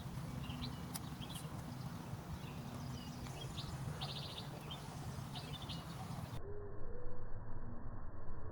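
Birds chirping: short calls scattered throughout and a quick rapid trill about four seconds in, over a steady low rumble. About six seconds in the higher sounds cut out suddenly and a few low calls follow.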